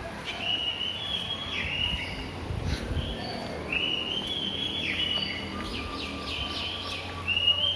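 A songbird singing a whistled phrase that steps up and down in pitch. The phrase comes three times, with short chirps in between.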